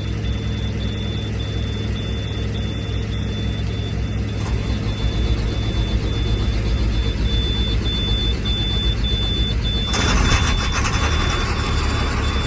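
School bus diesel engines idling, with a steady high-pitched warning beep that repeats with short gaps. About ten seconds in, a louder, rough rushing noise suddenly sets in.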